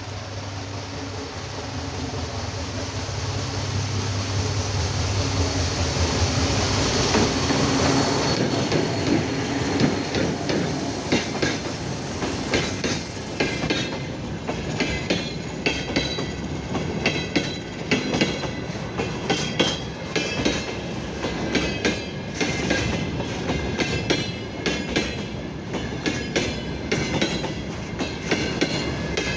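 TEM2M diesel shunting locomotive approaching with its engine humming steadily and growing louder over the first several seconds. Its freight wagons then roll past with rhythmic wheel clicks over the rail joints and thin wheel squeal.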